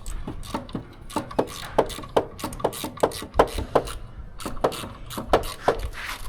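A run of sharp knocks and clicks from hand tools working on metal, irregular, about three or four a second.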